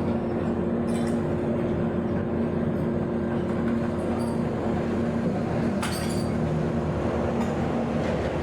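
A steady mechanical hum, with a couple of light clinks about a second in and near six seconds in.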